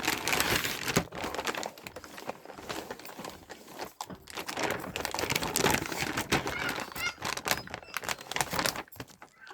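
Packaging of a painting kit being handled and unwrapped: crinkling, rustling plastic and card with many small clicks and snaps.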